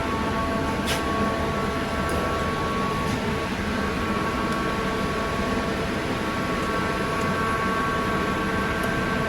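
Steady airliner cabin noise: an even hum and rush of air with several faint steady whining tones over it, and a single light click about a second in.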